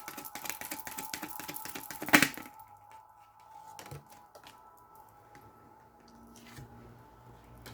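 Tarot cards shuffled by hand: a rapid run of flicking clicks for about two seconds that ends in one sharp snap, then a few soft taps as cards are handled.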